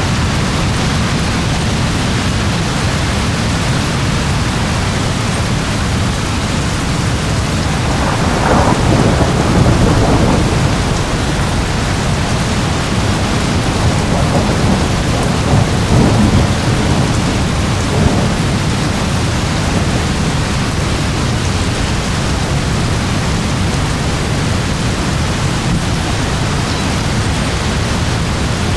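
Steady rain with rolling thunder. The thunder swells about a third of the way in and again just past the middle, with a short sharp clap soon after.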